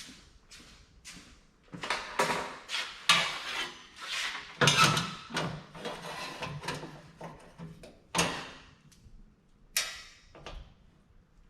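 Clamps and shelf parts being handled and fitted on a welded steel cart frame: a run of irregular clanks, knocks and scrapes, busiest in the middle, with a sharp knock about eight seconds in.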